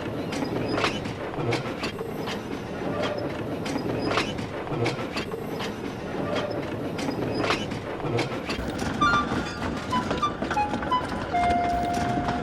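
Train running, its wheels giving a regular clickety-clack over the rail joints, about one click every three-quarters of a second. Near the end, a few short notes and then a steady high tone come in over it.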